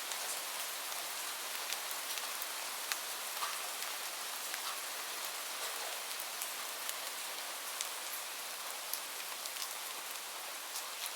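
Steady rain hiss with the sharp crackles and pops of a wood fire scattered through it, a few per second at most.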